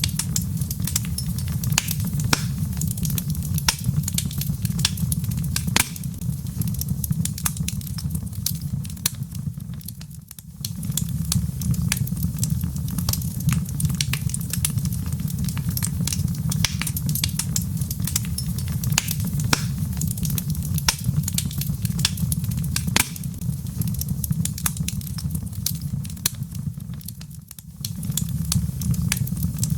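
Log fire crackling, with frequent sharp pops and snaps over a steady low roar. The sound dips briefly twice, about a third of the way in and near the end.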